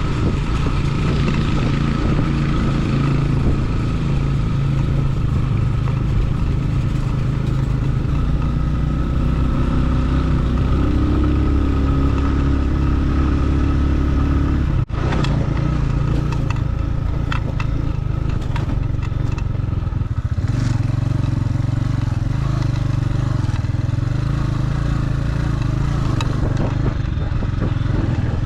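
Motorcycle engine running under way with wind and rattle on a dirt road, steady with small changes in pitch; a brief cut about halfway through, after which some clattering is heard.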